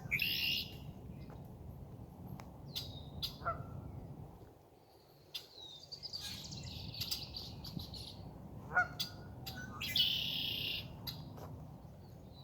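Birds chirping and calling at intervals: a series of short high chirps and a few longer calls, over faint outdoor background noise.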